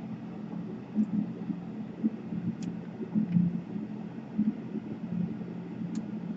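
Steady low hum of background noise with a few light clicks, about four over six seconds, from small laptop parts being handled on the workbench.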